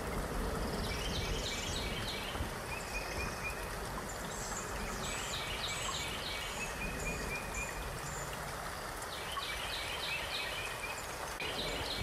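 Steady rushing of water, with a bird singing short phrases of quick high chirps three or four times over it.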